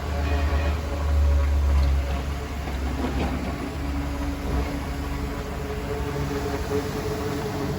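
Mobile mist-fan humidifier running: a steady rush of fan air over a motor hum. A deep low rumble in the first half drops away a little past the middle, leaving the fan and a clearer hum.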